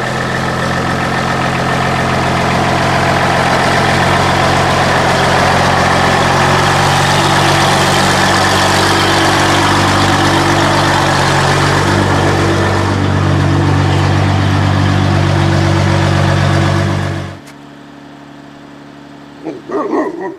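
Mercedes-Benz 814 truck's diesel engine running steadily at a fast idle, then shut off: the sound stops abruptly near the end, leaving a few brief faint sounds.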